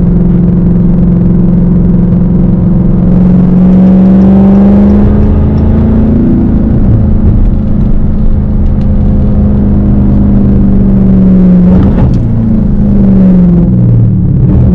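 Straight-piped Dodge Hellcat's supercharged V8 running loud under way. Its pitch climbs about three seconds in, holds steady, and then drops off in a few steps near the end.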